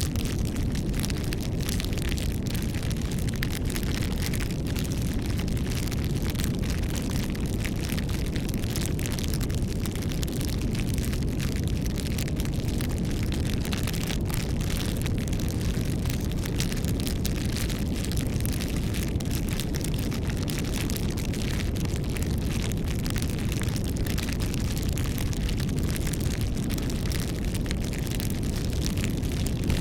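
Campfire burning: a steady low rush of flame with many small crackles and pops scattered throughout.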